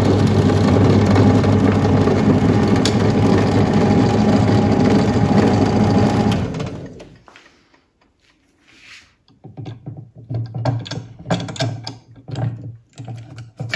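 Electric drill running steadily while boring a hole for the metal detector's coil cable. It winds down and stops about six and a half seconds in, followed by a few short, irregular bursts.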